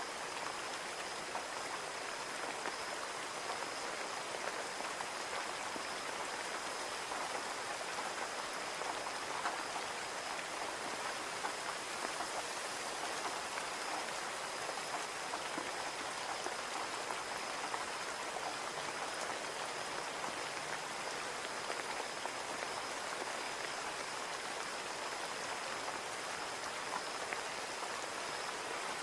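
Steady rain falling on a window pane: an even hiss with many small drop ticks, and a faint steady high tone underneath.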